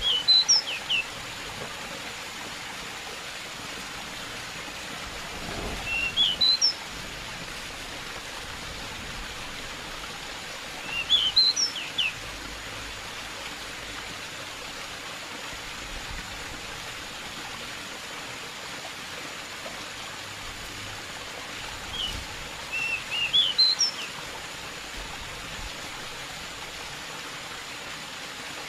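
Pied bushchat singing four short phrases of quick, high chirping notes, with a long gap before the last one, over the steady rush of running stream water.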